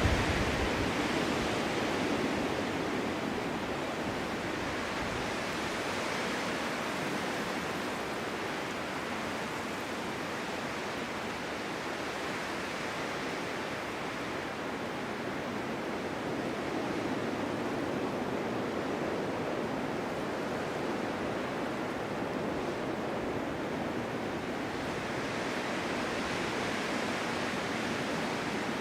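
Winter wind blowing steadily through a forest meadow in a snowstorm, a continuous rushing that swells and eases slowly, strongest at the very start.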